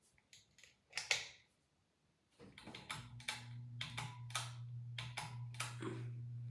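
Harbor Breeze Sailor Bay ceiling fan: a few sharp clicks, then about two and a half seconds in its motor comes on with a steady low hum, with irregular clicking and ticking over the hum.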